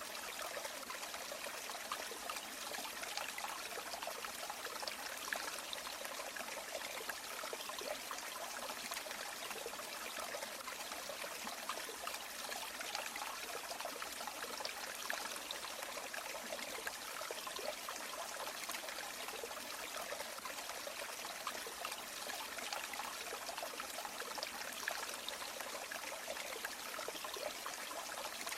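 River water flowing steadily over stones, a continuous rushing and trickling with small splashes and no change in level.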